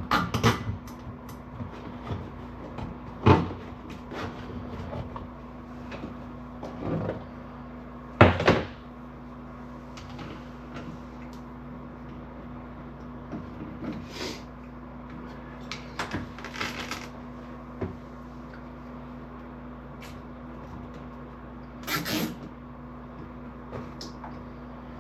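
Scattered knocks, clicks and short scrapes of hands working with wiring and parts, the two loudest knocks about 3 and 8 seconds in, over a steady low hum.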